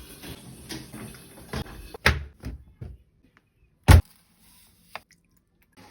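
Household handling noises: soft rustling and shuffling, a knock about two seconds in, then one loud knock like a door or cupboard shutting near four seconds, followed by a small click.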